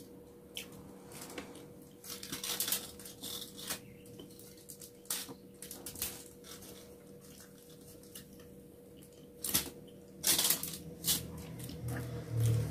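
Eating with the hands: scattered crackles and short rustles as fingers pick rice and food off an aluminium-foil-covered table, along with chewing, over a faint steady hum.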